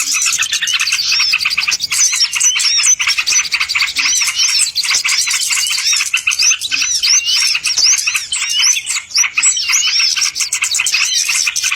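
Bird-lure (pikat) recording of small birds chirping and twittering densely and without a break, many quick high notes overlapping.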